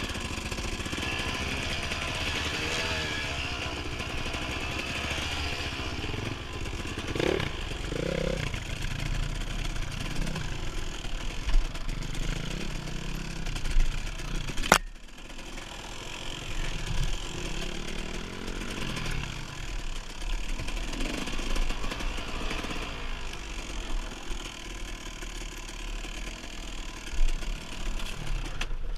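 Dirt bike engine running under way, its pitch rising and falling as the throttle opens and closes. The engine is heard over a steady rush of noise, and there is one sharp click a little past halfway through.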